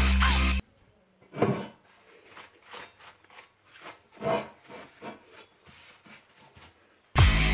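Music breaks off, leaving a run of faint hand-worked rubbing or scraping strokes, a few a second, with a couple of louder ones, before the music comes back in near the end.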